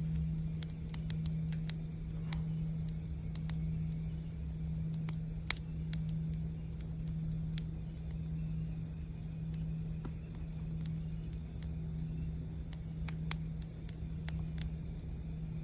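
Campfire crackling, with scattered sharp pops and snaps, over a steady low hum from a singing bowl's held tone.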